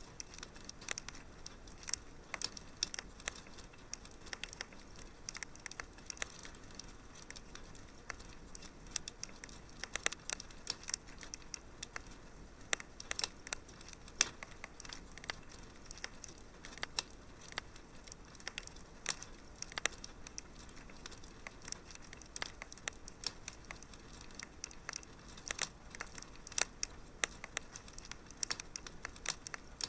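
Wood fire crackling in a fireplace: irregular small pops and snaps, several a second, over a faint steady hiss.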